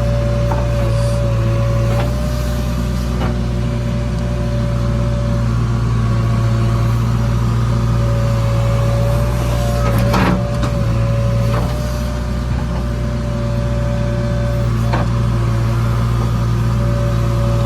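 Heavy vehicle engine running steadily, with a constant whine over the low hum and a few short knocks, the loudest about ten seconds in.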